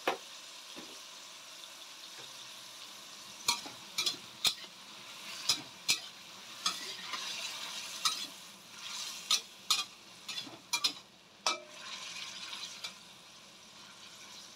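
Chopped tomatoes sizzling in oil in a metal wok. From about three seconds in, a metal spatula stirs them with sharp clicks and scrapes against the wok.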